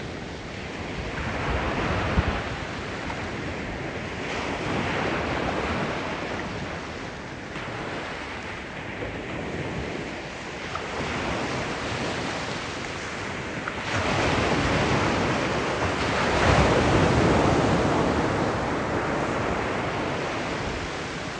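Sea waves breaking and washing on the shore, a steady rush that swells and ebbs with each wave, the loudest surge coming about two-thirds of the way through.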